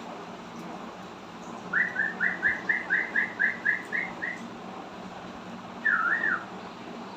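Cockatiel whistling: a quick run of about ten short rising notes, roughly four a second, then a single wavering up-and-down whistle near the end.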